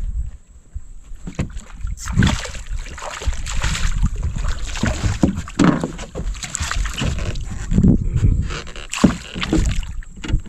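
Water splashing and sloshing against a small boat's hull as a hooked redfish thrashes and is brought aboard, over a steady low rumble of wind on the microphone.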